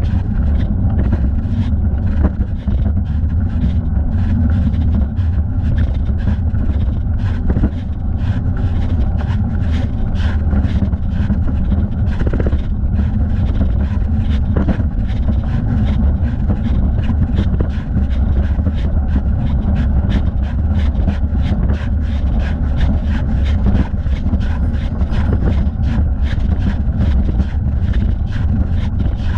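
A bicycle riding along a paved path, heard from a leg-mounted camera: a steady low rumble of wind and road noise, with frequent small clicks and rattles from the bike.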